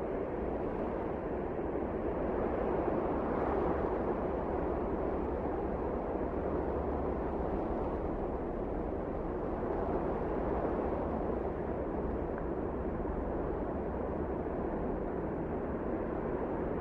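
Wind blowing as a steady low rush of noise, swelling slightly a few seconds in.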